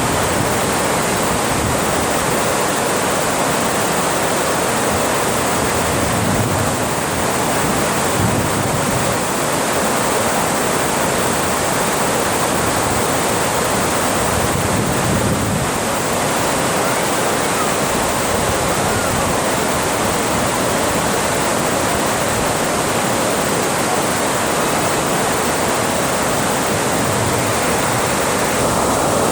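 Water rushing over a dam in a steady, loud roar that does not change.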